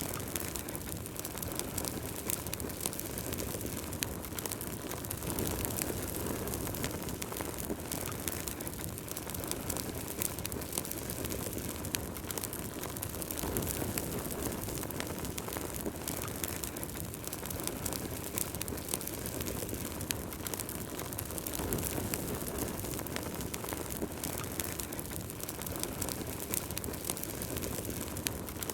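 Wood fire burning in a fireplace: a steady low rush of flame with frequent small, sharp crackles and pops from the burning wood.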